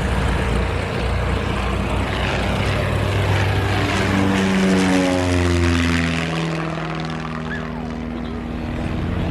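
Small propeller airplane passing close by, its engine and propeller drone dropping in pitch as it goes past about halfway through, then fading a little.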